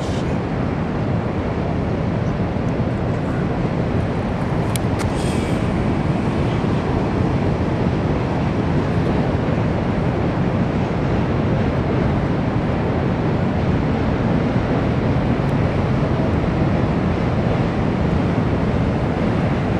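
Freight train of coal hopper cars rolling past, a steady rumble of steel wheels on rail, with a couple of sharp clicks about five seconds in.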